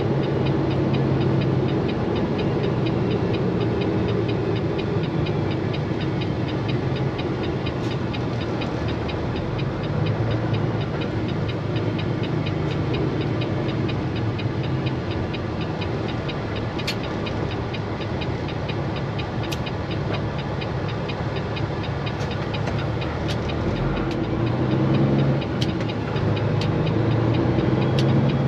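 Straight-piped Peterbilt 389 semi truck's diesel engine running, a steady low exhaust note over continuous noise.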